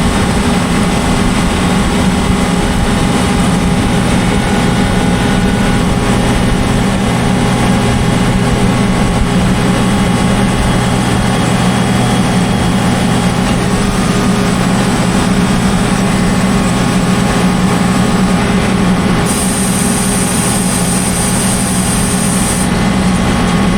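Heavy farm machinery running steadily with a constant low engine hum. A high hiss joins for about three seconds near the end.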